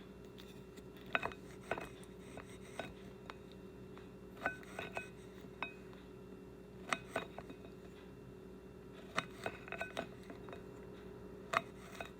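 Kitchenware clinking: a knife and dishes tapping and knocking together in short clusters of sharp clinks, some ringing briefly, while asparagus is cut up and handled. A low steady hum runs underneath.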